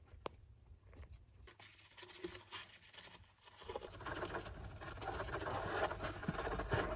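Golden hamster scratching and scrabbling at its enclosure. Mostly quiet at first with a single click, then a steady scratchy rustle starts about four seconds in and grows louder, with occasional sharp clicks.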